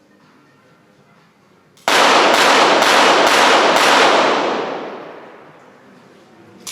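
Five rapid pistol shots from a .22 Short rapid fire pistol, about half a second apart, forming a timed five-shot series that starts about two seconds in. Each shot rings out in the range hall, and the echo dies away over the next two seconds.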